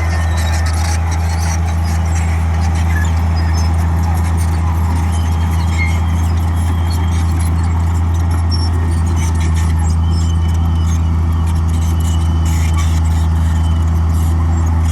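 Komatsu D58E bulldozer's diesel engine running at a steady, heavy drone under load, with scattered high squeaks and clinks from its steel tracks and undercarriage.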